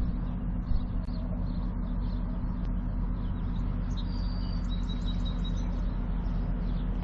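Small birds chirping over a steady low mechanical hum.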